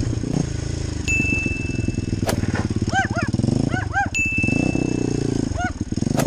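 A motorcycle engine idling, its pitch swelling briefly about four seconds in. Two steady high electronic beeps, each about a second long, sound over it, along with a few quick arching chirps.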